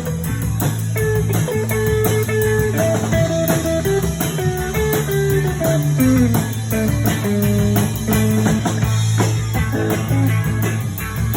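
Instrumental break in a blues song: a guitar plays a lead line of held notes over a steady bass line, with a run of notes sliding down partway through.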